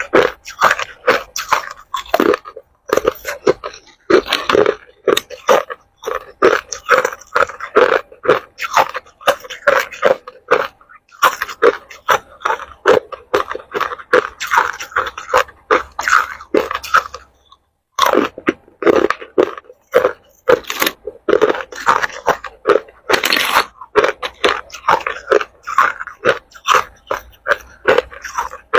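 Ice being bitten and chewed in the mouth: a fast, irregular run of loud crunches, broken by a brief silence about two-thirds of the way through.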